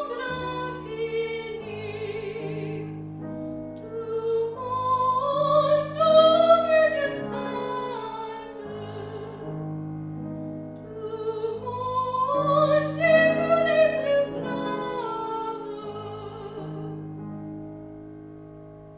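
Classical recital singing in a high voice with vibrato, accompanied by piano. Two phrases climb to loud high notes, and the music fades off near the end.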